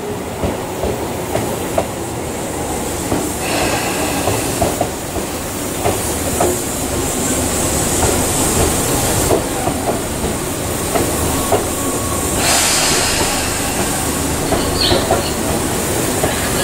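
Electric commuter trains at a station platform: a standing Tobu 10030-series train runs steadily, with irregular wheel clatter and a brief wheel squeal about four seconds in. A loud hiss of air begins about twelve seconds in.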